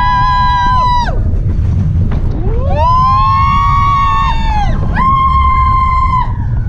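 A steam whistle sounding a chord of several tones, blown three times. The first blast is already sounding and cuts off about a second in. A longer one starts near the middle, and a shorter one follows right after it. Each blast slides up in pitch as it opens and sags as it closes. Under the whistle runs a steady low rumble.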